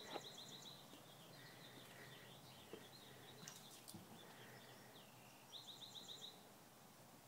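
Faint birdsong: a small bird's rapid, high trill heard twice, near the start and again about five and a half seconds in, with scattered softer chirps in between.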